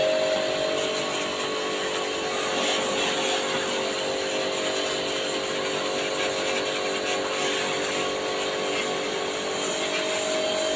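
Small electric motor running steadily with a constant hum and a hiss over it, typical of a portable high-pressure jet washer spraying water during air-conditioner cleaning.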